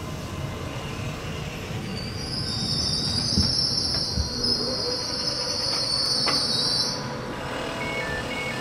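Trenitalia Pop electric multiple unit rolling slowly past the platform with a low rumble, its wheels giving a loud high-pitched squeal from about two seconds in that stops suddenly about seven seconds in. A few short high beeps near the end.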